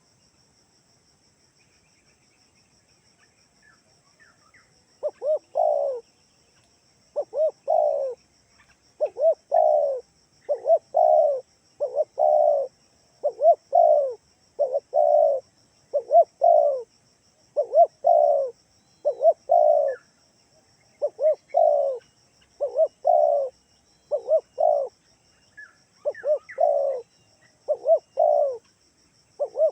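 Spotted dove (tekukur) cooing over and over in quick paired notes, roughly one group every second or so. The cooing begins about five seconds in, after a near-quiet start with a few faint high chirps.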